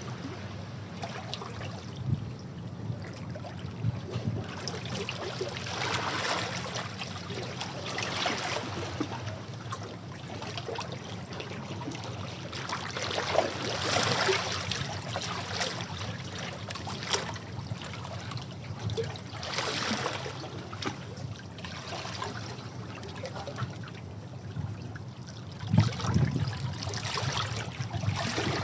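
Sea waves washing over rocks, with water surging and splashing in swells every few seconds and trickling back between them.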